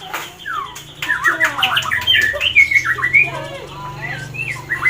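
White-rumped shama (Medan murai batu) singing: a fast, varied run of whistled notes sweeping up and down in pitch, mixed with harsher chattering notes, thickest from about a second in. A faint steady low hum lies underneath.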